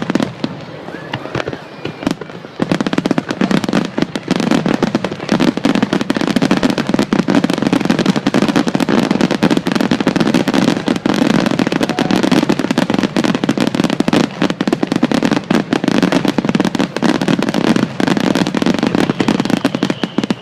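Fireworks display: a quieter first couple of seconds, then a dense, rapid barrage of bursts and crackles with a low rumble underneath.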